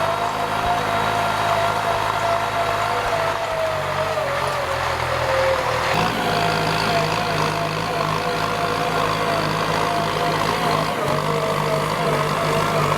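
Kubota M9540 tractor's diesel engine running steadily under ploughing load. Its pitch sags slightly about four seconds in, and the sound changes abruptly about two seconds later.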